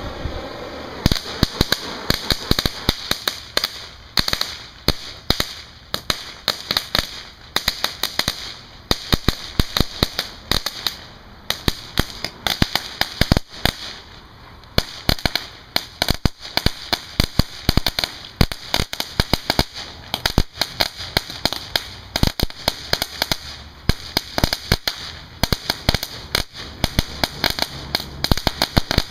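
A Big Bangers firework from Big Fireworks crackles in a long run of rapid, irregular sharp pops, starting about a second in. It gives no single bang: sold as a firecracker, it crackles instead.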